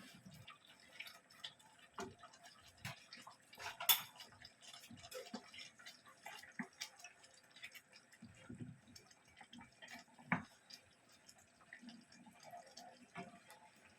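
Scattered light clicks and taps of kitchen handling during cooking, with a sharper knock about four seconds in and another about ten seconds in.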